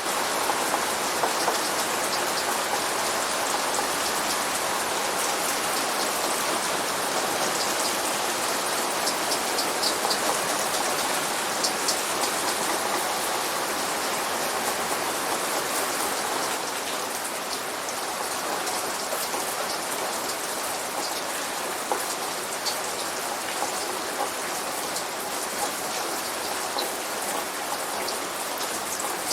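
Steady light rain falling on a surface, an even hiss dotted with the clicks of single drops. It eases a little about halfway through, and no thunder is heard.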